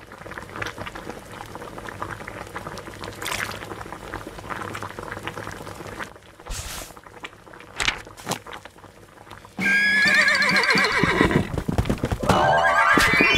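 Ice crackling and ticking in a pot of water heating on an electric hot plate. About ten seconds in, a loud, wavering pitched sound cuts in, slides down, then rises again near the end.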